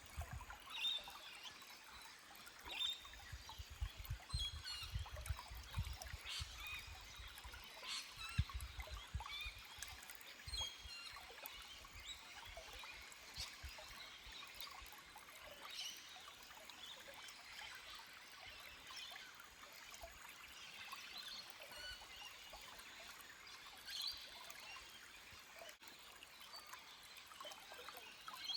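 Small forest stream trickling over rocks, with scattered short bird chirps and low rumbles during the first ten seconds or so.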